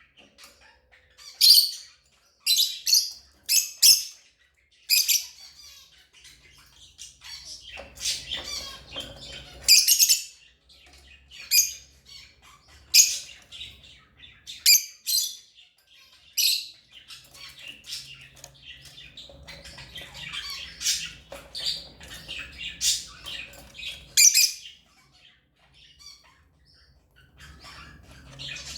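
African lovebirds calling: a run of short, shrill chirps and squawks at irregular intervals, some bunched close together, with brief pauses between runs.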